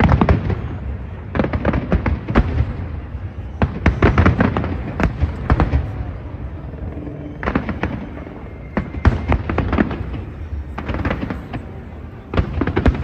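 Fireworks going off in quick clusters of sharp bangs and crackles, a new volley every second or two, over a low rumble.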